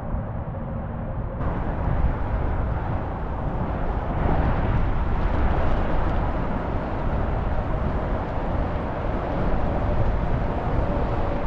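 Steady wind noise buffeting the microphone of a camera riding on a moving bicycle.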